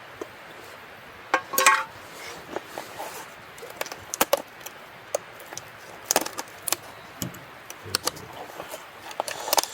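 Irregular knocks and clicks of camp cooking gear and wood being handled, with a louder ringing metallic clink about one and a half seconds in.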